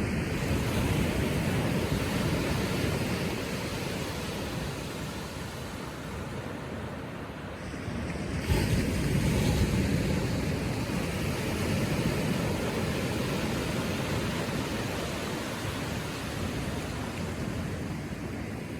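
Ocean waves breaking and washing gently on the shore, the surf swelling and easing; a larger wave breaks sharply about eight and a half seconds in, then slowly dies away.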